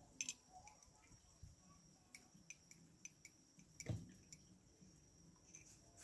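Faint steady high-pitched insect chirring, typical of crickets, with scattered light clicks and one soft thump about four seconds in.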